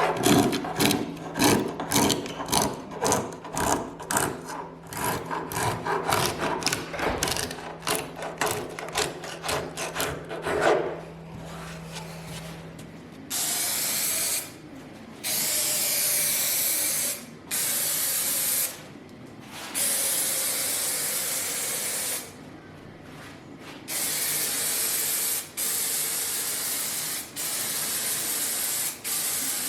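Rhythmic rubbing strokes, about two a second, over a steady hum, stop about eleven seconds in, typical of hand-sanding or filing wood. Then paint is sprayed in repeated hissing bursts of one to three seconds.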